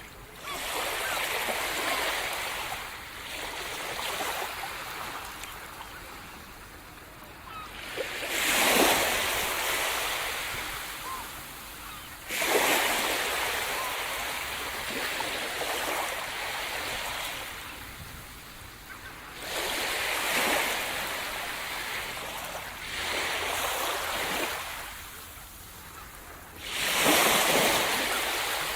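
Sea surf: waves breaking on the shore one after another, each rushing in suddenly and washing back over a few seconds, about six in a row, the strongest near the middle and near the end.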